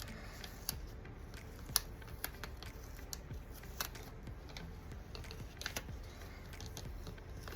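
Scattered light clicks and taps of hands handling paper stickers and planner pages, peeling a sticker off its sheet and pressing it down, over a low steady room hum.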